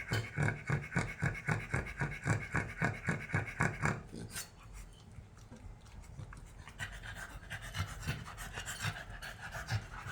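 Cavalier King Charles Spaniel snoring, in quick rhythmic raspy breaths about three a second; about four seconds in the breathing turns quieter and less regular, and the rasp comes back more faintly later.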